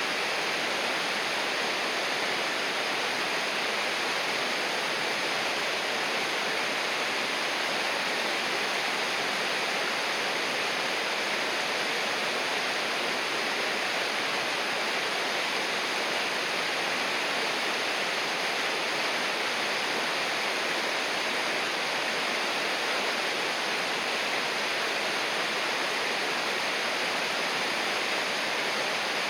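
River water rushing steadily, an even unbroken hiss with no surges or splashes.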